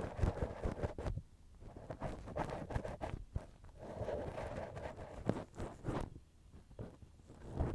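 Cotton swab rubbing and scraping in the ear of a binaural microphone: close, scratchy rustling with small clicks and soft thumps. It comes in strokes, easing off briefly about a second in and again around six seconds in.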